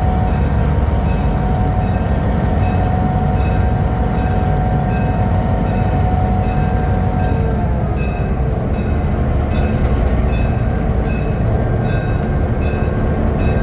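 Train rolling past at close range with a heavy, steady rumble; a steady tone in it drops in pitch about eight seconds in as the train goes by. A short bright ding repeats evenly about twice a second over it, as of a grade crossing's warning bell.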